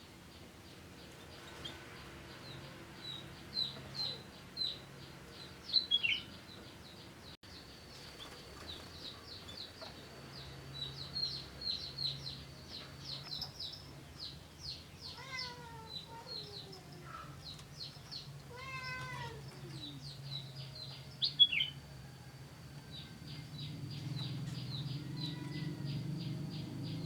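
Small aviary birds chirping, a quick run of short high chirps with a few louder ones. Twice in the middle a longer, falling drawn-out call cuts through, and a low drone grows near the end.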